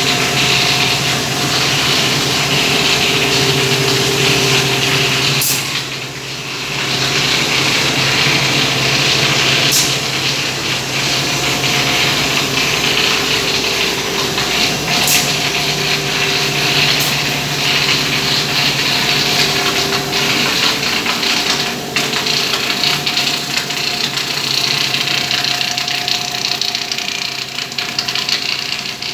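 Plastic extruder machine running steadily, a motor hum under a broad hiss, with a few sharp clicks at uneven intervals.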